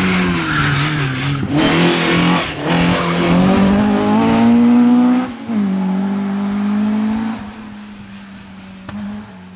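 Rally car engine under hard acceleration, its pitch climbing through the revs and dropping sharply at a gear change about five seconds in. It then holds lower and fades as the car drives off.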